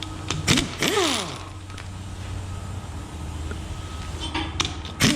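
Hydraulic roller lifters being pulled out of an LS1 V8's lifter bores. There is a sharp metal click twice, each followed by a short squeak that glides up and back down in pitch, over a steady low hum.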